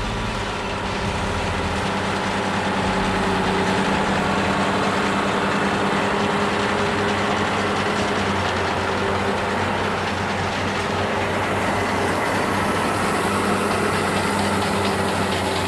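A vehicle engine running steadily at constant revs: an even drone with a steady hum that does not rise or fall.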